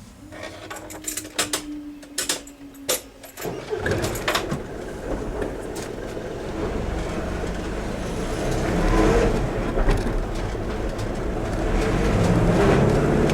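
Road vehicles driving over the railway level crossing, engines and tyres growing louder as traffic moves. Before that, for the first three and a half seconds, a steady low hum with scattered clicks stops abruptly.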